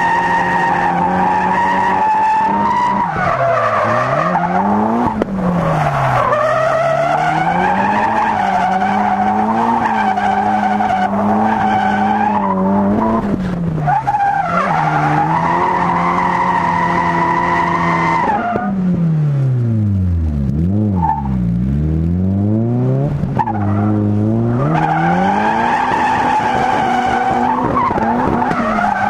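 Nissan S13 Silvia's turbocharged SR20DET four-cylinder (TD06-20G turbo) held high in the revs while drifting, with the tyres skidding. The revs fall and climb back several times, with one long drop to low revs and back up about two-thirds of the way through.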